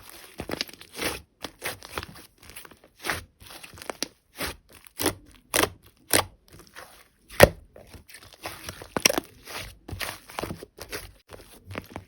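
Sticky slime being kneaded and pressed by hand, giving irregular short clicking pops, about two a second.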